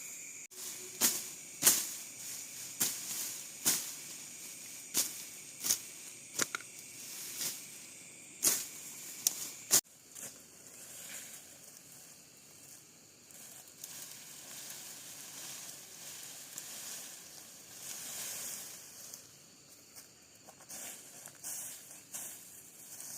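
A run of sharp knocks or strikes, irregular at about one a second, ending in one sharp crack about ten seconds in. Softer crackling and rustling follow.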